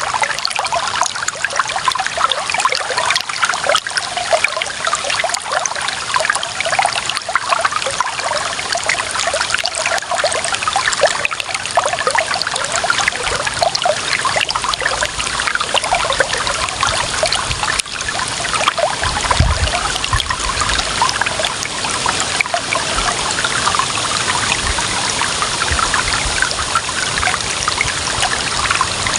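Clear water running and trickling steadily over stones in a small stream, with a busy babbling patter. Near the end, a brief low rumble comes in under it.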